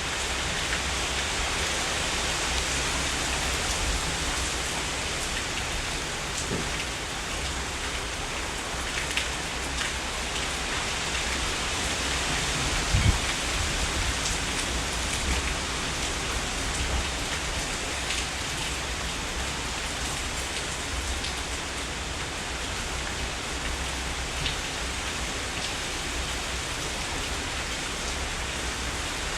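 Heavy rain falling steadily, an even hiss with scattered individual drops hitting surfaces close by. About halfway through there is a single brief low thump, louder than the rain.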